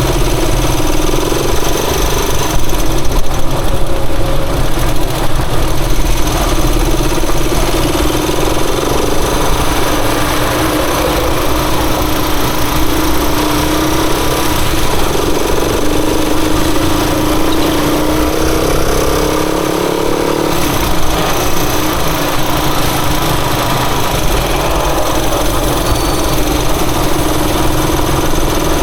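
Rusi Chariot 175 motorcycle engine running under way, its pitch rising and falling with the throttle, over a steady loud rush of noise.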